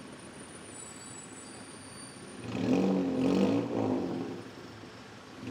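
A motor vehicle engine revving as it passes close by, loudest from about two and a half to four seconds in, over steady street traffic noise.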